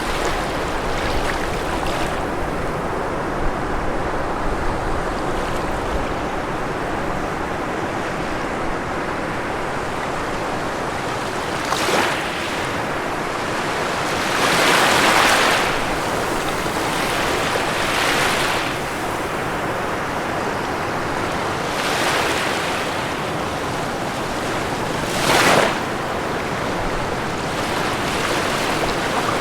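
Ocean waves breaking on a shore: a steady wash of surf, with a few louder breakers every few seconds, the loudest about halfway through and a short sharp one near the end.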